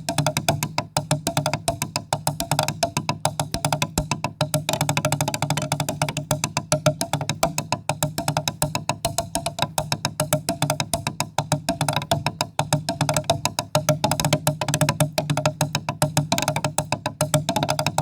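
Percussion music: a fast, steady run of wooden-sounding strokes over a low drum-like tone.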